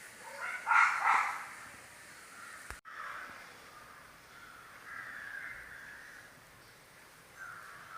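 A bird cawing twice in quick succession about a second in, followed by fainter, more distant calls.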